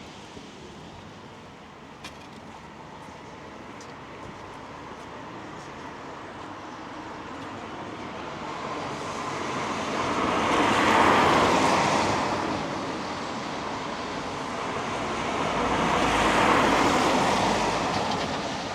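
Two road vehicles pass one after another on a wet road, each a swelling and fading hiss of tyres on wet tarmac over a steady background of rain.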